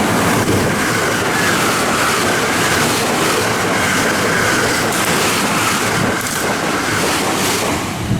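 JR West electric commuter train running along the platform, a loud steady rush of wheel and running noise with a faint whine above it. It drops off sharply at the end.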